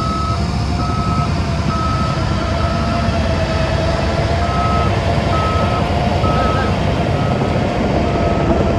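Reversing alarm of heavy construction machinery beeping in an even on-off pattern, about one beep a second, over the steady running of a diesel engine.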